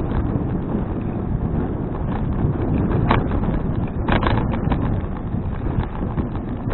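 Wind buffeting an action camera's microphone on a moving bicycle, a steady low rumble. Small clicks and rattles from the bike run through it, with sharper knocks about three seconds in and again a second later.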